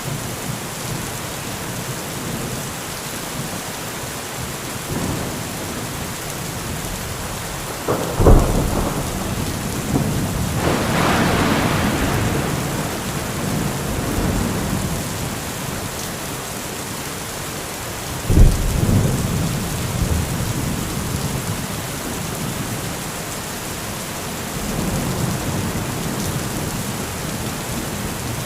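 Heavy rain falling steadily through a thunderstorm. A sharp thunderclap comes about a third of the way in and is followed by a long rolling rumble. A second loud clap comes just past halfway and rumbles away.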